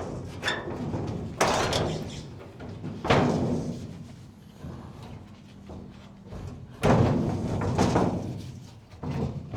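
El Camino's loose steel hood being lifted off and handled: a series of sheet-metal thumps and scraping clunks, the loudest hits about a second and a half, three seconds and seven seconds in.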